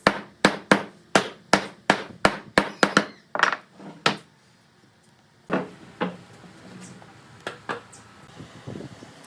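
Hammer blows on wood in a quick, even run of about three strikes a second, slowing and stopping about four seconds in. After a short pause come a few lighter, scattered knocks.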